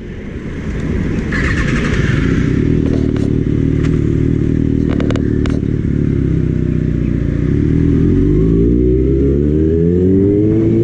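Kawasaki Ninja ZX-6R's inline-four engine running. It swells in over the first couple of seconds, holds fairly steady, then climbs steadily in pitch over the last few seconds as the bike accelerates. A few sharp clicks come around the middle.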